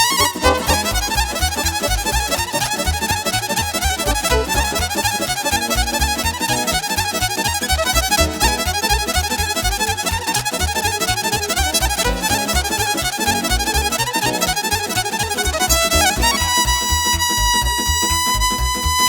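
Instrumental Romanian party folk music: a fiddle lead playing fast runs over a steady bass beat. A long held note starts near the end.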